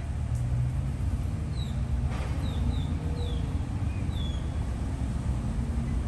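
Birds giving short, high chirps that slide downward in pitch, about half a dozen spread through, over a steady low rumble of road traffic. A single brief click about two seconds in.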